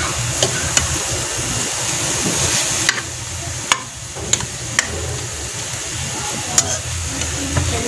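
Ground pork with chopped onion and carrot sizzling steadily in a pan as it is stirred with a metal spoon, the spoon clicking sharply against the pan several times.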